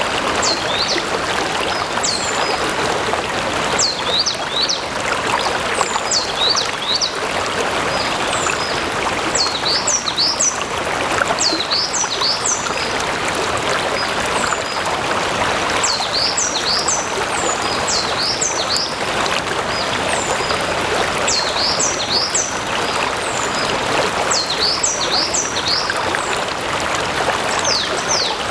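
A stream of running water, a steady, even rushing. Over it a bird sings short phrases of quick, high, falling notes every few seconds.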